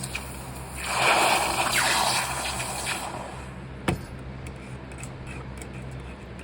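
Water gushing and splashing for about two seconds, then a single sharp click.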